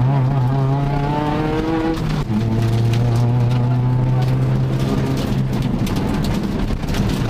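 Volkswagen Golf GTI Mk2 rally car's four-cylinder engine pulling hard, heard inside the cabin. The note breaks off briefly about two seconds in, then holds steady before giving way to rougher engine and road noise near the end.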